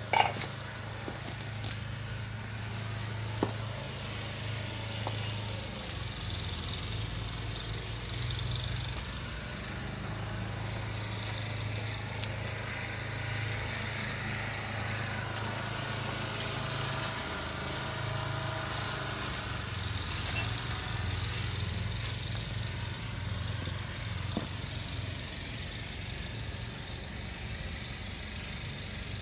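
An engine running steadily with a low, even hum, with a couple of faint clicks near the start.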